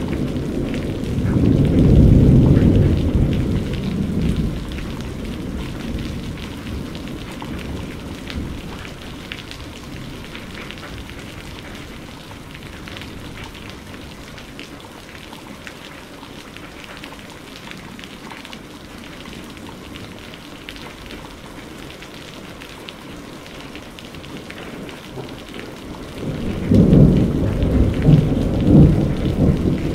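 Steady rain falling with thunder. A rumble peaks about two seconds in and fades away over the next several seconds, and a second loud peal of thunder starts near the end.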